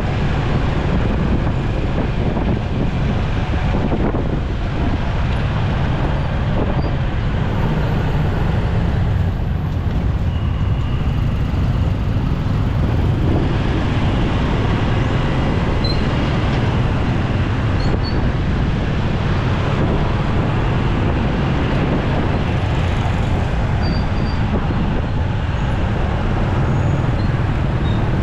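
Steady riding noise from a motorcycle moving through city traffic: its engine and road noise, mixed with the surrounding traffic.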